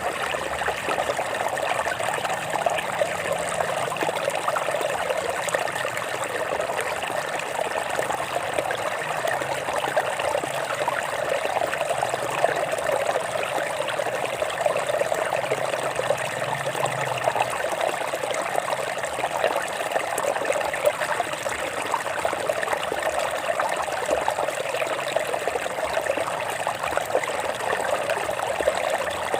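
Stream water trickling and babbling over rocks in a steady, unbroken flow.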